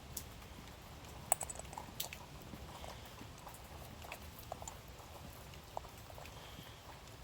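Scattered small clicks and taps of metal carburetor parts being handled as the float bowl is fitted back on, the sharpest about a second in.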